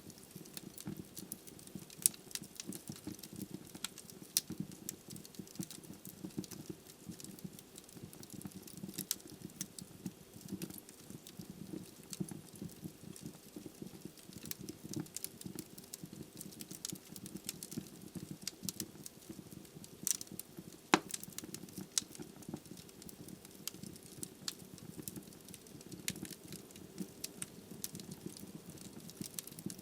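Wood fire burning in a fireplace: a steady low rumble of flames with frequent sharp crackles and pops from the burning logs, two louder pops about 2 and 21 seconds in.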